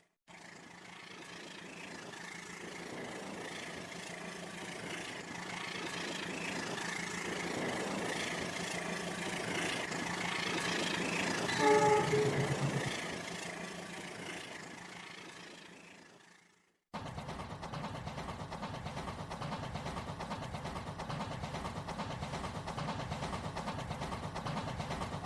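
A train passing: its rumble builds from silence to a peak with a brief horn blast about halfway through, then fades away. Then a different, evenly pulsing sound starts abruptly.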